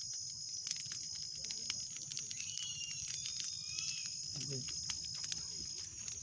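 Crickets chirring in a steady high trill, with scattered sharp clicks throughout.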